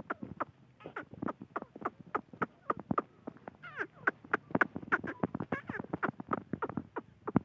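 Grey francolin giving a rapid series of short clucking notes, several a second, with a few brief chirps near the middle.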